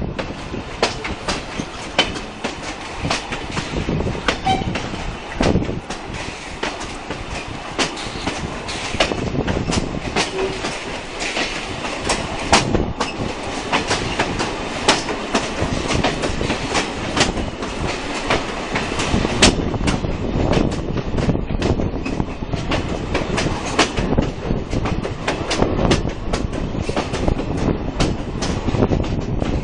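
Passenger coach of a heritage steam train running along the track, a steady rumble with many sharp clicks of the wheels over rail joints, heard from an open carriage window.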